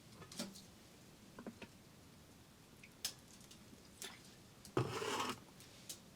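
Scattered light taps and ticks, with one brief rustle about five seconds in.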